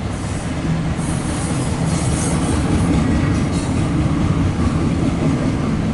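Train running past on the tracks: a steady, loud rumble of the locomotive and wheels on rail, with a brief high hiss a second or two in.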